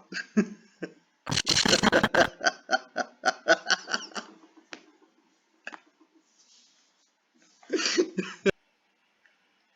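People laughing over a video-chat connection: a loud, harsh burst of laughter about a second in that runs on in pulses for a few seconds, then a short laugh again near the end.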